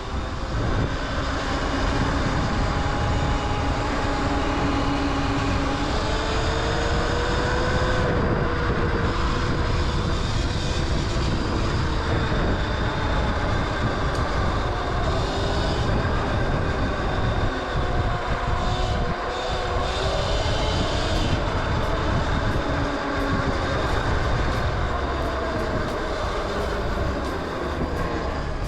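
Electric dirt bike motor whining while riding, its pitch rising and falling with speed, over heavy wind rush on the microphone.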